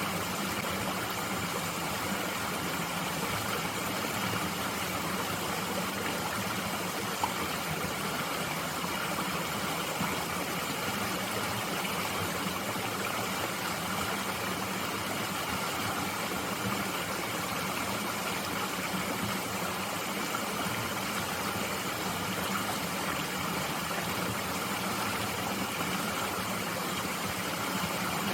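A mountain stream flowing steadily, an even rushing of water, with one small click about seven seconds in.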